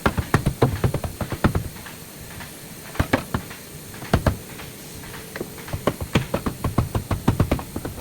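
Irregular quick knocks and taps, coming in clusters of several strokes with short pauses between them.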